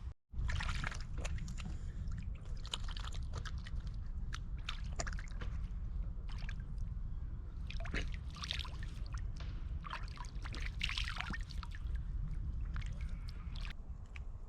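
Water sloshing and trickling in irregular bursts over a steady low rumble.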